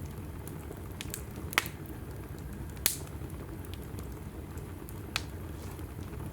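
Logs burning in a wood fireplace: a steady low rumble of flames broken by sharp crackles, with three distinct pops, the loudest about three seconds in.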